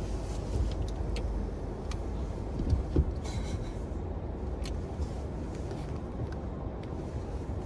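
Car wash tunnel machinery heard from inside a car: a steady low rumble with scattered clicks, a thump about three seconds in, and a short high tone just after it.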